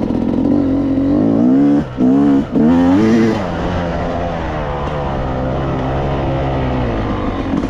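Yamaha YZ250X two-stroke dirt bike engine revving hard as it runs at and over a double jump. About two seconds in the throttle is chopped twice in quick succession, then the engine revs up steeply again before settling into a steadier, slightly lower run.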